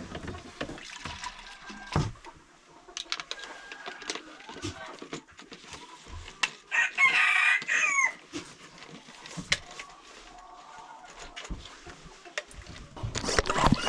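Chickens clucking amid scattered knocks, with a rooster crowing loudly for about a second and a half about seven seconds in. Another loud call starts near the end.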